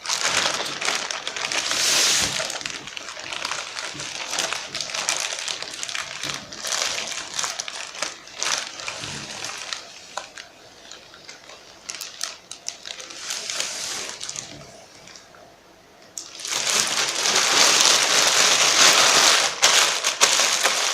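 Packaging crinkling and rustling with small clicks as a delivered parcel is unwrapped by hand, growing loudest and most continuous near the end.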